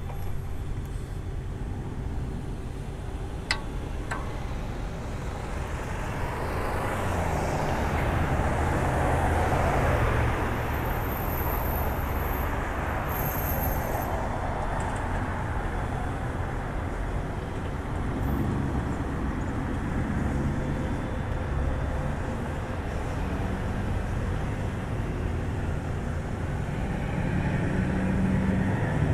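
Road traffic heard from a moving bicycle, a steady noisy rush. One vehicle swells past between about six and eleven seconds in.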